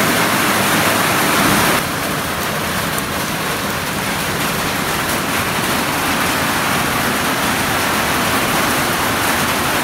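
Heavy rain pouring, a steady hiss that drops a little in level about two seconds in.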